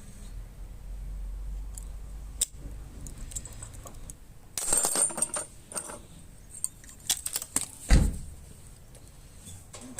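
Metal parts being handled: scattered light metallic clicks and clinks, a short clatter about halfway through, and a heavy knock about eight seconds in.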